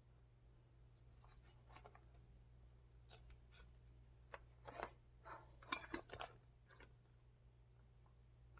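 Faint handling of food packaging as it is opened: a scatter of soft crackles and clicks, busiest in the middle, over a low steady hum.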